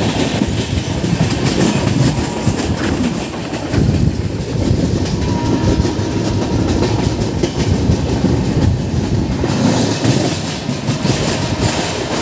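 Moving LHB passenger coach heard from its open doorway: a steady rumble with wheels clattering over the rail joints as the train runs through a station at speed. A brighter rushing hiss sets in about nine seconds in.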